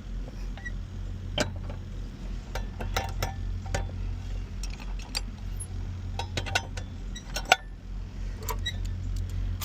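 Metal clicks and clinks of a padlock and seal being handled on semi-trailer doors: a dozen or so sharp, irregular ticks, with one louder click about seven and a half seconds in, over a steady low hum.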